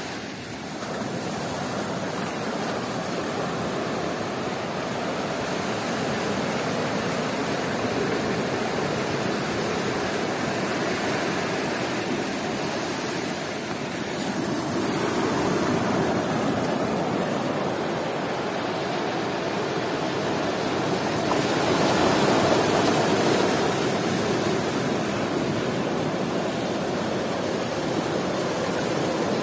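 Sea surf washing onto a beach: a continuous rushing noise that slowly swells and eases as waves break, with the biggest surges about halfway through and again a little after two-thirds of the way in.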